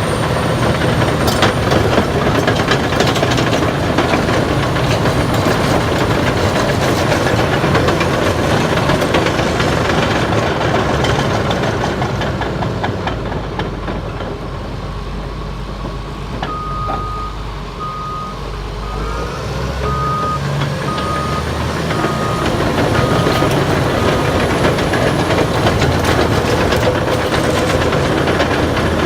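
Caterpillar D6T XL crawler dozer running and travelling, its engine working under steady clanking from the steel tracks. In the middle its reverse alarm beeps about once a second, eight times, signalling that the dozer is backing up.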